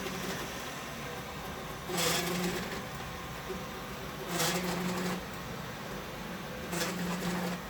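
Robot vacuum cleaner running while caught on fishing line, with three short bursts of motor whine and scraping about two, four and a half and seven seconds in as it strains to free itself.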